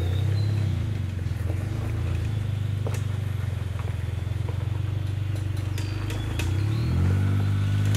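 Modified Suzuki Jimny JA11's engine running steadily at low revs as the 4x4 crawls over rough ground, with a few light knocks. Near the end the revs rise a little and it gets louder.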